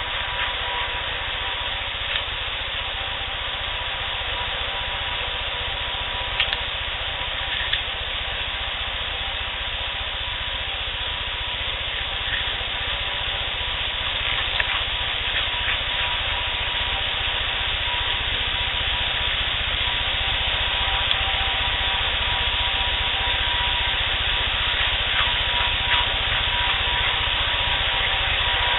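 Steady hiss of a heavily amplified field recording, with a faint steady tone and a few brief faint clicks or scratches.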